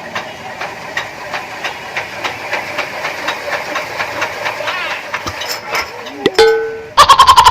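Single-cylinder diesel engine running steadily with a hiss and a regular knock about three times a second. Near the end, a brief gliding tone and then a very loud rapid string of pulses with a steady ringing tone.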